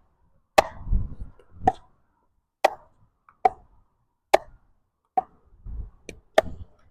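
Pickleball rally: a paddle hits the plastic ball about eight times in quick succession, roughly once a second, each hit a sharp pock. Low gusts of wind rumble on the microphone between hits.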